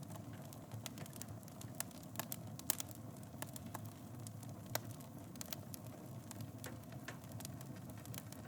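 Wood fire burning in a fireplace: a steady low rumble with irregular crackles and sharp pops, a few louder snaps in the first half.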